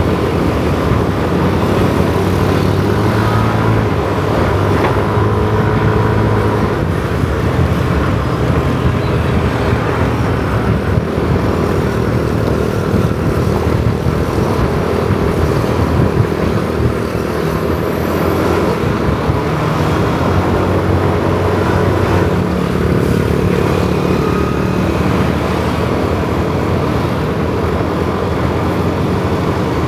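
Kawasaki ZX-4R's inline-four engine running steadily as the motorcycle rides through city streets, its note rising and falling a little, over constant wind and road rush and the hum of other motorbikes in the traffic.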